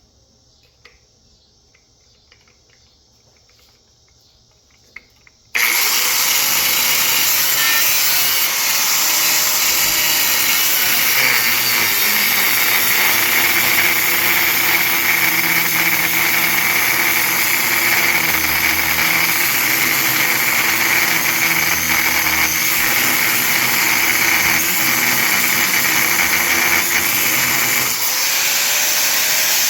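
Angle grinder cutting into a large electric motor's metal housing, loud and steady. It starts abruptly about five seconds in, after a few quiet seconds with faint clicks.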